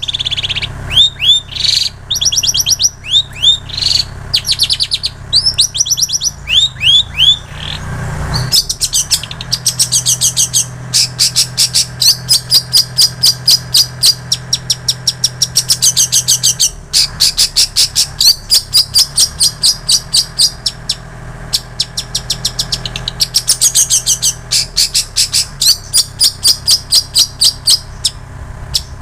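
Long-tailed shrike (cendet) singing a mimicked song filled with plain prinia and canary phrases. It opens with a string of short down-slurred whistles, about two or three a second, then shifts about eight seconds in to fast runs of repeated high notes, about five a second, with brief pauses between phrases.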